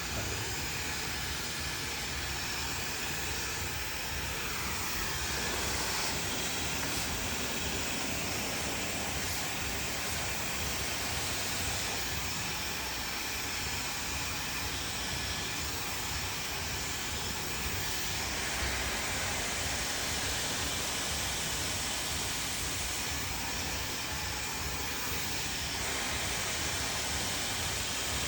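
Handheld hair dryer running continuously at a steady setting, blowing a constant rush of air.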